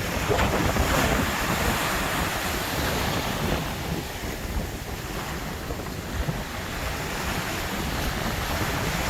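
Sea surf washing ashore, with wind buffeting the microphone in a steady low rumble.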